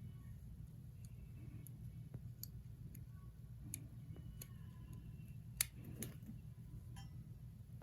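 Faint, scattered small clicks and taps of hand tools working on a wristwatch, with one sharper click about five and a half seconds in, over a low steady hum.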